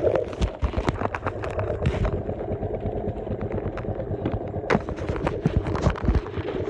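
Small off-road vehicle engine running steadily, with frequent short knocks and rattles.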